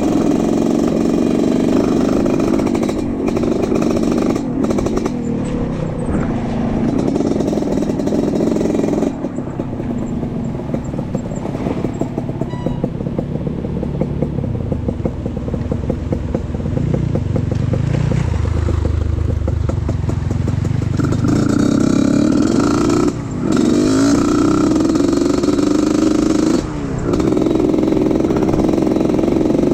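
Off-road trail motorbike engine running while riding, its pitch and level rising and falling with the throttle. It is lower and quieter through the middle, then louder again, dropping off briefly twice near the end.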